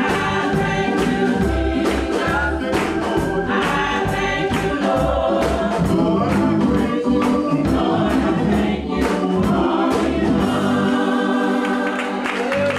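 Church gospel choir singing with band accompaniment over a steady beat. Near the end the low bass drops away while the voices carry on.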